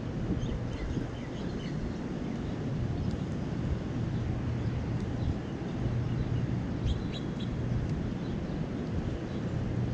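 Steady low rumble of city traffic, with a few short, high bird chirps scattered over it and a small cluster of chirps about seven seconds in.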